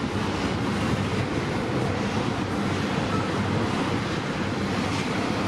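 Freight train rolling past on the track, a steady, even rumble of rail cars and wheels with a low steady hum underneath.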